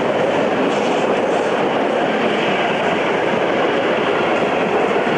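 Train running along the rails: a loud, steady rolling noise of wheels on track.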